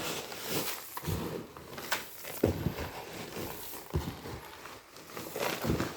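Irregular light knocks and rustling from things being handled, with no steady rhythm.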